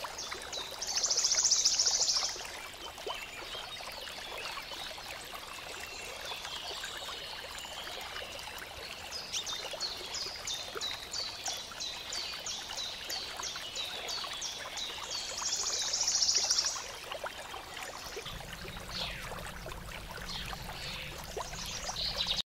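Songbirds chirping over a steady hiss. A loud, dense trill comes about a second in and again near the middle, and a run of quick repeated notes follows between them.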